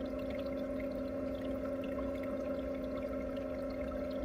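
Steady machine hum at two fixed pitches, with a constant running-water sound over it.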